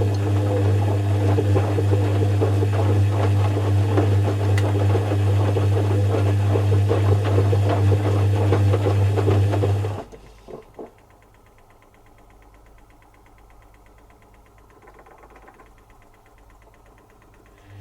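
Zanussi FC1000 3 kg compact washing machine running with a steady mechanical hum. About ten seconds in it stops abruptly, with a couple of clicks, and goes quiet, then starts again at the very end.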